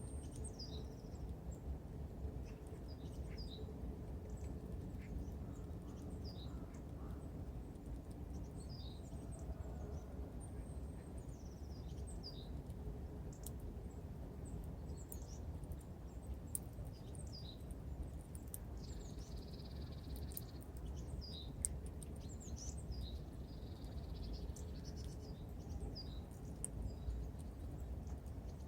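Small songbirds at a winter feeder, tits and finches, giving short, high chips and ticks scattered throughout, with a few sharp clicks. A steady low background rumble runs underneath.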